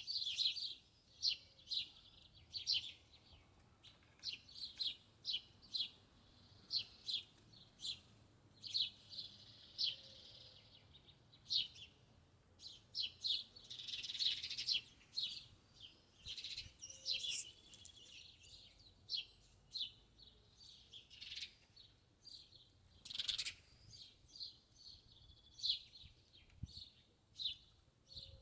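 Small songbirds chirping: a long run of short, high chirps at an uneven pace, with a few longer twittering phrases mixed in.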